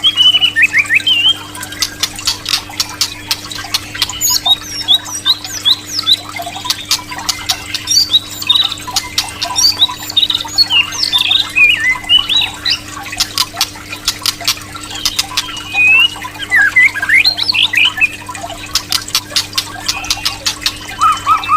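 White-rumped shama (murai batu) singing: a fast run of varied whistles and phrases that glide up and down, broken by rapid volleys of sharp clicking notes, over a steady low hum.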